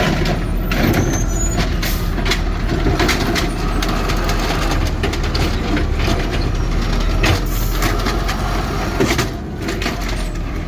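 Side-loader garbage truck running steadily while its arm empties a can into the hopper, with repeated clunks and knocks of the can and its contents.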